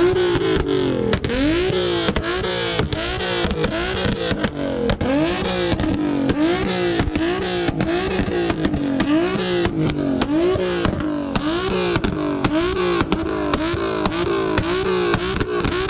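Car engine revved over and over in quick throttle blips, its pitch rising and falling about one and a half times a second, with sharp exhaust pops and crackles throughout.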